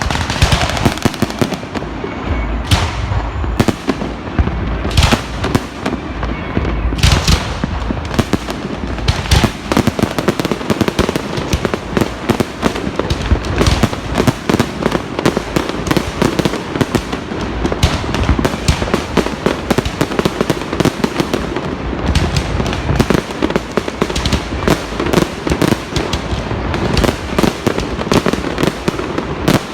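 Many fireworks going off at once: a constant crackle of rapid bangs, with a few bigger single booms standing out in the first third.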